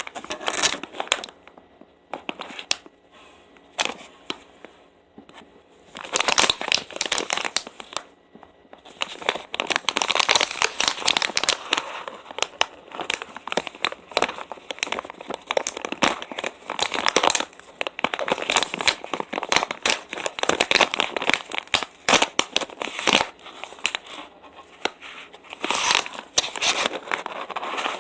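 Plastic snack bag crinkling and tearing as it is handled close to the microphone, in repeated bursts with quieter spells between.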